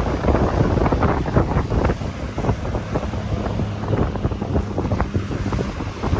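Strong wind blowing across the microphone over waves on a beach; the wind noise rises and falls in gusts.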